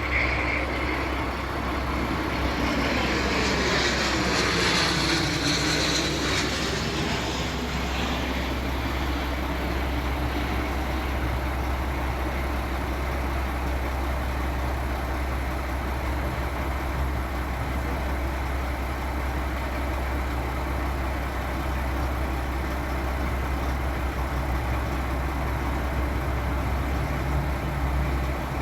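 Beechcraft 400A business jet with its two Pratt & Whitney JT15D turbofans passing by, its whine and hiss falling in pitch between about two and eight seconds in, followed by a steady low rumble.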